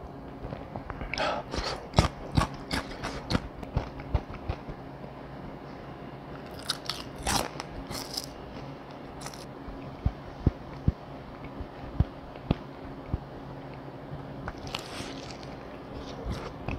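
Close-miked biting, crunching and chewing of fried chicken, with crisp crunchy bites in clusters and scattered small clicks between them.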